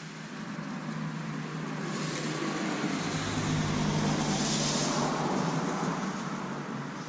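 A car passing by, its road noise swelling to a peak about four seconds in and then fading away.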